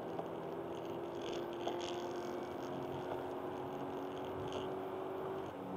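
Honda Accord Type-S wagon heard from inside the cabin, its engine pulling at steady revs over tyre noise on a wet road. The engine note drops to a lower pitch near the end.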